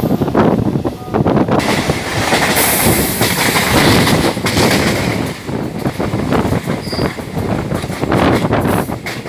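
Suburban electric multiple-unit train running on the Chennai Beach–Tambaram line, its wheels rumbling and clattering over the rails, with a high wheel squeal about three seconds in.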